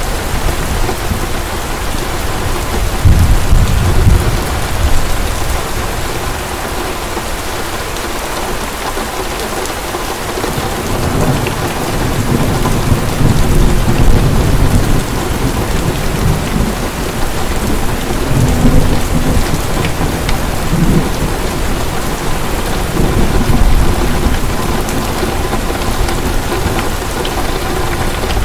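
Heavy rain falling steadily, with low rolls of thunder swelling and fading several times.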